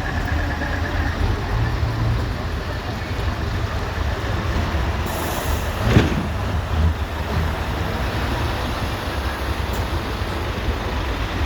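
Heavy trucks' diesel engines rumbling steadily. About halfway through there is a brief hiss that ends in a sharp knock.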